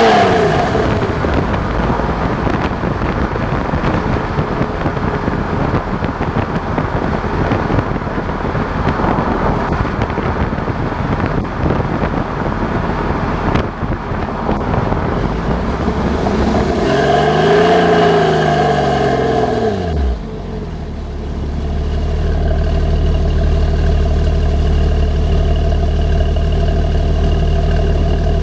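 Porsche 996's flat-six engine through a Fabspeed aftermarket exhaust: a long stretch of loud, unsteady engine noise, then one rev that climbs and falls back about two-thirds of the way through, after which it settles to a steady idle.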